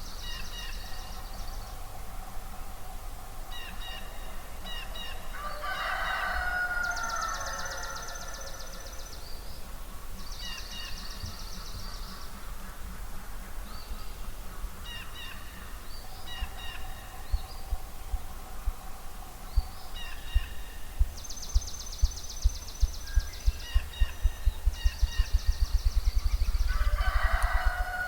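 Spring dawn chorus of songbirds, with repeated short whistled phrases and a fast high trill. In the second half a ruffed grouse drums: low thumps that speed up into a roll. A loud honking call with a falling pitch sounds twice, about six seconds in and near the end.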